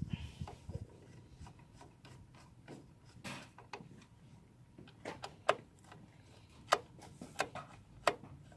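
Irregular clicks and light knocks of hand tools and engine parts being handled during assembly work, the sharpest few in the second half.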